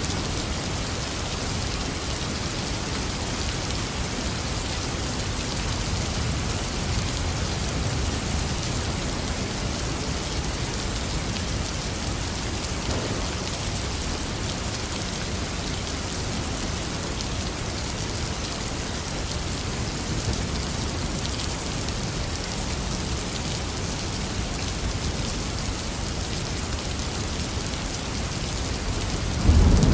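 Heavy rain falling steadily, a dense even hiss of drops. Right at the very end a loud clap of thunder breaks in with a deep rumble.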